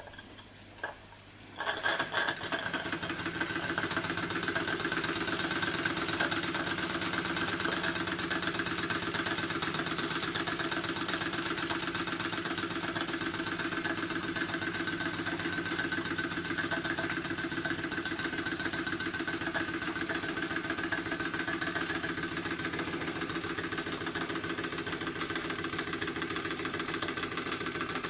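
Small model engine starting up abruptly about two seconds in, then running steadily with a fast, even beat and a steady whirr from the Baker fan it drives as a load.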